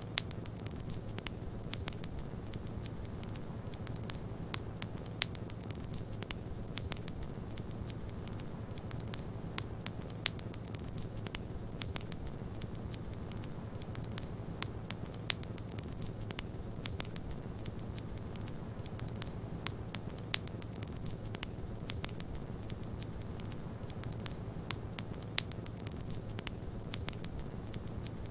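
Wood fire crackling in a fireplace: sharp, irregular pops and snaps over a steady low rushing noise.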